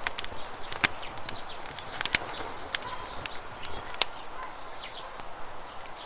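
Campfire crackling with sharp pops scattered throughout, over the steady rush of flowing river water, with small birds chirping now and then.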